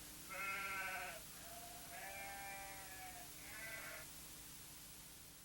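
Three held, voice-like cries, the middle one the longest, over a faint steady hum.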